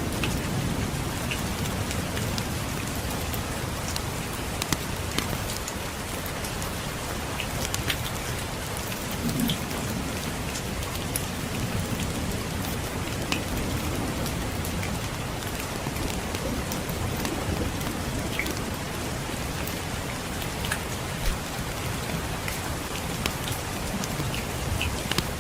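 Steady rain on a surface, with scattered sharp clicks and pops through it. A low rumble of distant thunder lies underneath, strongest at the start and swelling again briefly a third of the way in and near the end.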